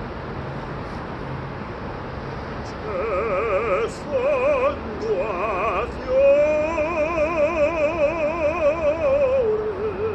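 A singer's voice doing vocal exercises with a wide, even operatic vibrato: short sung phrases start about three seconds in, then one long held note from about six seconds that steps down to a lower note near the end.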